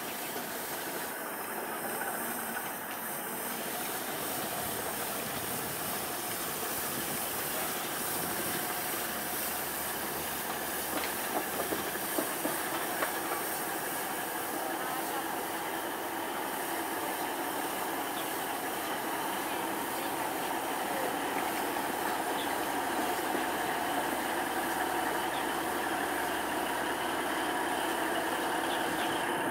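A train rolling along steadily, a continuous noise that grows slightly louder, with a few sharp clicks about halfway through.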